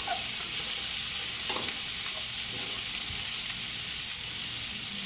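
Beef and broccoli sizzling in a hot pan, a steady hiss, with a few light clicks of a utensil stirring about a second and a half in.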